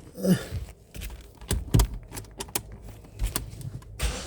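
A string of sharp, irregular clicks, then about four seconds in the 2006 Opel Zafira's engine starts with a sudden rush of noise and low rumble.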